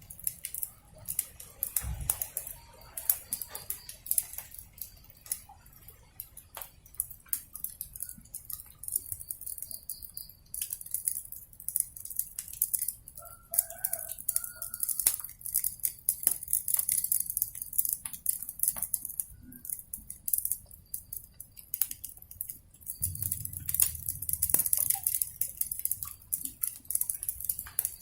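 Wood fire crackling, with frequent sharp pops and snaps over a faint low rumble. A brief animal call sounds about halfway through.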